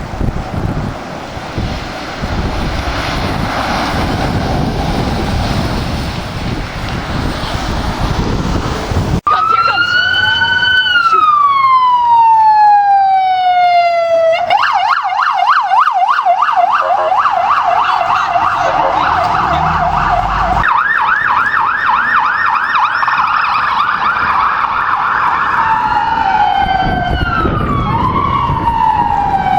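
Emergency vehicle's electronic siren: after wind and traffic rumble for the first third, a long falling wail, then a rapid yelp, then a wail rising again near the end.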